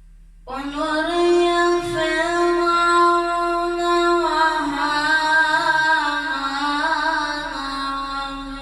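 A male reciter chanting the Quran unaccompanied in melodic tajwid style, drawing out a long phrase of held, ornamented notes. The voice comes in about half a second in, after a short pause for breath.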